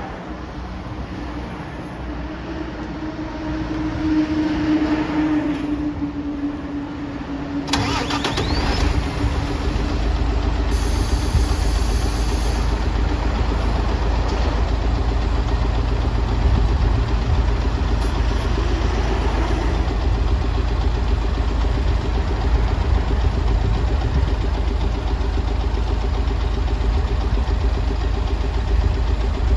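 City bus engine being started: a steady whine for the first several seconds, then the engine catches about eight seconds in and settles into a steady, low idle. A brief hiss comes a few seconds after it starts.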